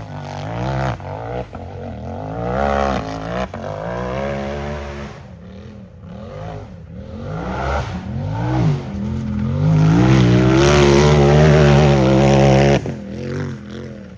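Unlimited-class UTV engine revving hard during a timed off-road run, its pitch climbing and falling over and over with the throttle. The longest full-throttle pull comes about ten seconds in, holds for nearly three seconds, then drops off sharply.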